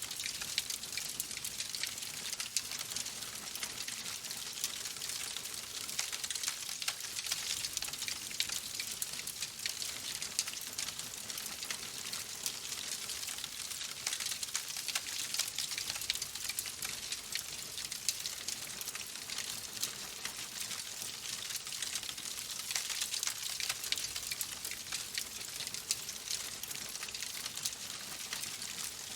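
Fireplace fire crackling: a steady dense stream of small pops and snaps over a soft hiss.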